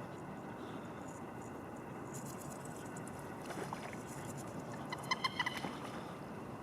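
Birds calling: a few faint calls, then a quick run of about five short, clipped calls about five seconds in, over a steady background hiss.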